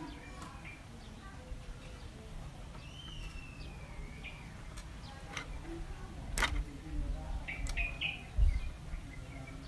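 A bird chirping in the background, with one whistled call that dips and rises about three seconds in and a few short chirps later. A sharp click and then a low thump, the loudest sound, come near the end.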